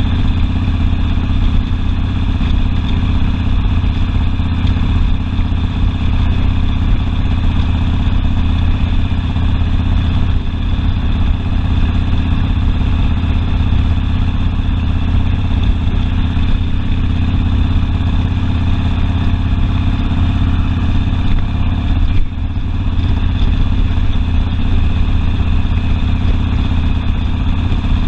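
Harley-Davidson Sportster V-twin engine running steadily, with a short dip in level about 22 seconds in.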